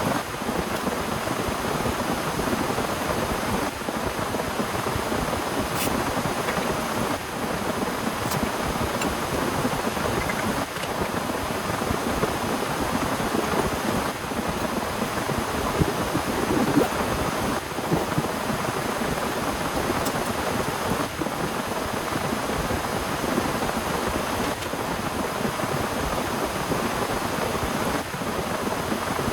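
Heavy rain falling steadily in an even hiss, with a few faint sharp ticks.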